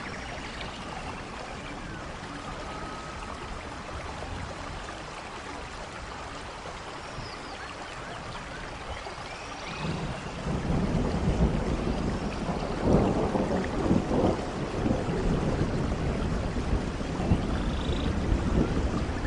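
Rain falling on forest leaves and ground, a steady hiss that grows louder about halfway through with a deeper, irregular rumbling surge.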